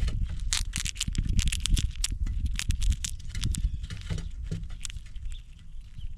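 Squirrels at a peanut table cracking open in-shell peanuts and scrabbling about, an irregular run of sharp crackles and clicks over dull knocks.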